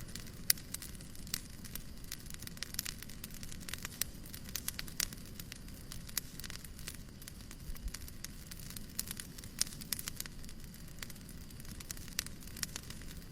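Fireplace crackling: many sharp, irregular pops and snaps over a steady low rumble of burning.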